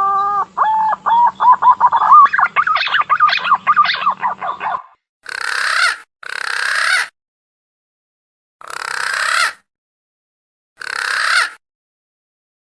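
Punai daun (green pigeon) call used as a lure: a long rising whistle, then a rapid run of short, wavering whistled notes. After that come four breathy, hissing sounds, each about a second long, that swell and stop abruptly.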